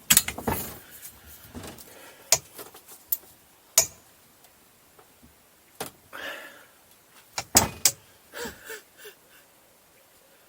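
Irregular sharp clanks and knocks of hand tools, a socket and wrench being worked against a seized fastener on a jet ski engine. The strikes come singly, a second or two apart, with a quick pair near the end.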